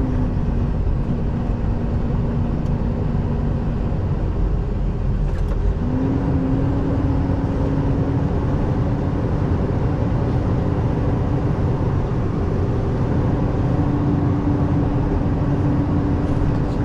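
Semi truck's diesel engine running steadily as the truck drives slowly, with the engine pitch rising a step about six seconds in as it picks up revs.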